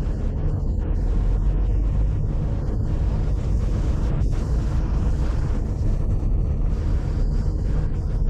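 A car driving: a steady low rumble of engine and road noise, with no breaks.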